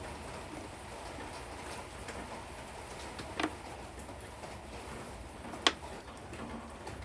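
A few light clicks and taps over a steady background hiss, with one sharp click about two thirds in, like small parts or tools being handled.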